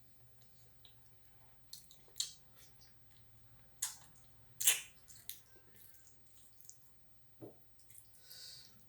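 Close-miked wet eating sounds from someone eating butter chicken and rice: chewing with a few sharp, wet mouth smacks, the loudest about two, four and five seconds in.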